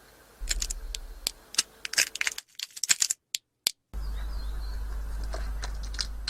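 A run of irregular sharp clicks and taps over a low hum, broken by two brief drops to dead silence.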